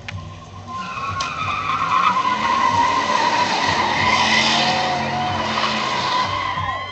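Dodge Durango doing a burnout: the spinning tyres squeal steadily over the engine, building up over the first two seconds and then holding.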